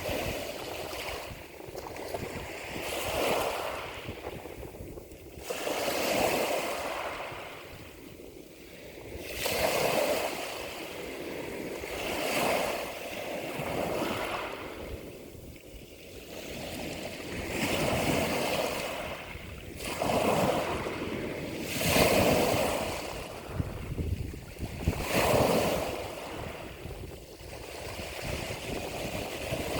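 Ocean waves breaking and washing in, a rushing surf that swells and falls back every two to three seconds.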